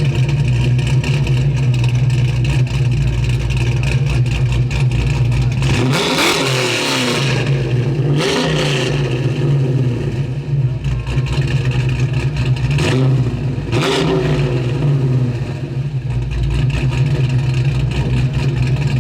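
1969 Plymouth Road Runner's 383 big-block V8 (bored .030 over) idling, with the throttle blipped about four times, each rev rising and falling back to idle.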